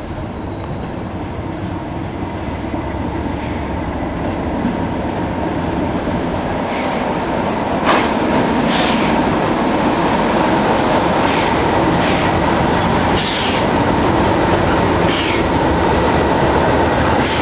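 Class 37 diesel locomotive with its English Electric V12 engine, running and getting steadily louder as the train draws near. From about seven seconds in, the wheels give short, sharp high-pitched clacks and squeals on the rails every second or two.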